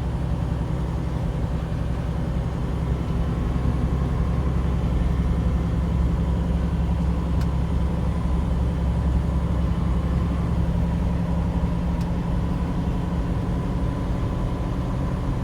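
Steady drone of a semi truck's engine and running gear heard from inside the cab, with a deep hum and no changes in speed or pitch.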